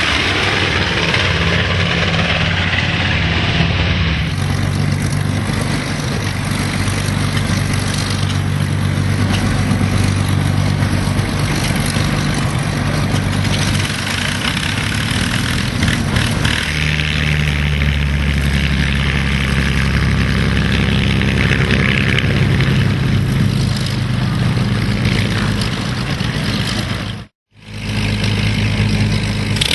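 Piston aircraft engines running at low power, a steady, throbbing engine note that shifts at a few edit cuts and drops out briefly near the end.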